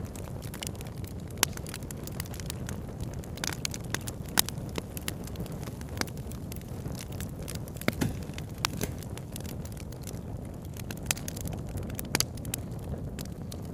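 Campfire crackling, with irregular sharp snaps and a few louder pops, over a steady low rush of a flowing river.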